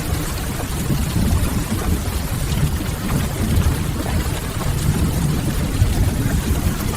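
Rain and fireplace ambience: an even hiss of steady rain over a continuous low rumble.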